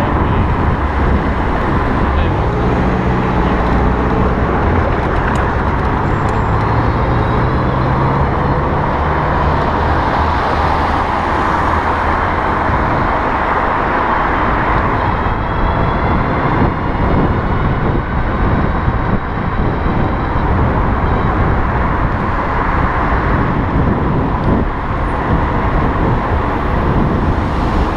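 Steady rushing road and wind noise from riding an electric bike in traffic, with a low engine hum from a motor vehicle in the first ten seconds or so.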